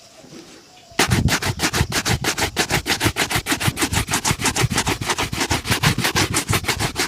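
A shoe being buffed in quick back-and-forth shoe-shine strokes, an even scrubbing rhythm of several strokes a second that starts about a second in.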